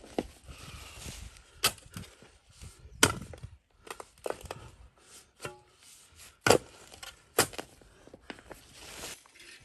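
Axe chopping firewood: about five sharp, irregularly spaced strikes on wood, the loudest about three seconds in and another about six and a half seconds in.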